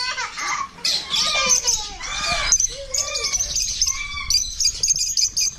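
Many caged pet birds, parakeets and lovebirds among them, chirping rapidly with louder squawks mixed in.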